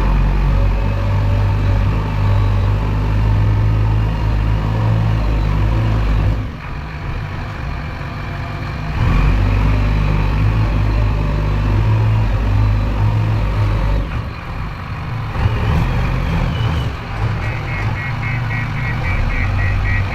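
Diesel engine of a JCB backhoe loader running under load, easing off twice and picking up again. A rapid high-pitched beeping starts near the end.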